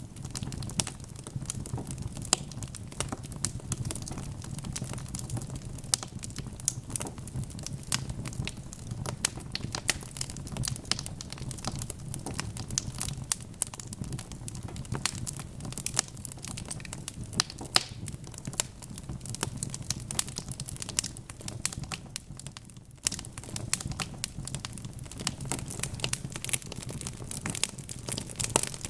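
Wood fire crackling steadily: many sharp irregular pops and snaps over a low, even rumble of burning logs, with a brief lull a little before the end.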